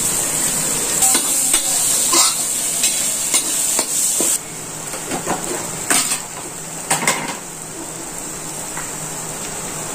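Chopped onions and spices frying in oil and butter in a steel kadhai, sizzling, while a flat metal spatula stirs and scrapes against the pan with scattered clicks. The hiss of the sizzle drops suddenly about four seconds in.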